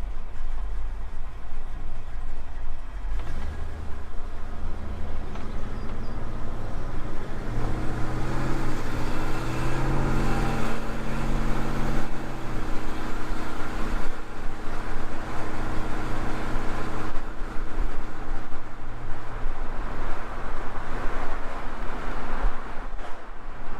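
1957 Chevrolet Bel Air's engine running on the move, with road noise. About seven seconds in the engine note rises as the car accelerates, then holds steady.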